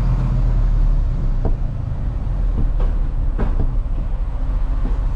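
Semi-truck diesel engine running with a steady low rumble, and a few scattered metallic knocks and clanks over it.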